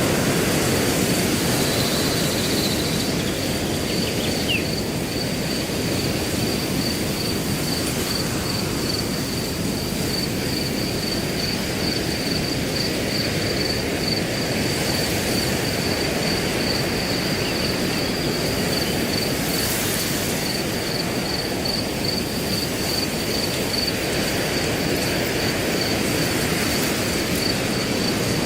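Wind rushing steadily through grass, with a cricket chirping in a high, even pulse about twice a second throughout.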